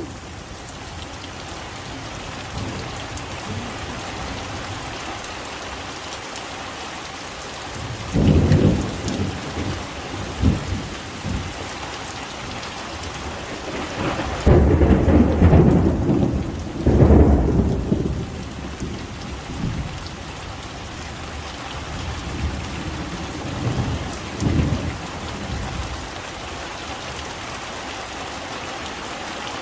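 Heavy rain falling steadily through a thunderstorm, with thunder rumbling over it: a first roll about eight seconds in, a long loud one in the middle, and weaker rumbles near the end.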